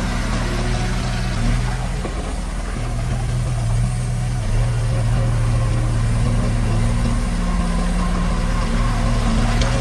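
Diesel engine of a heavy construction machine, a bulldozer or dump truck, running steadily at a low hum.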